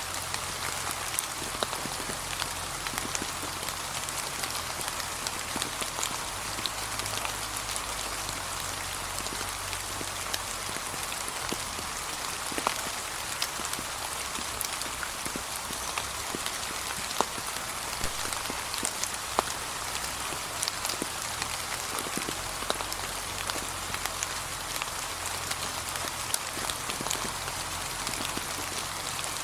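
Steady gentle rain falling, with many individual raindrops ticking on a surface amid an even hiss.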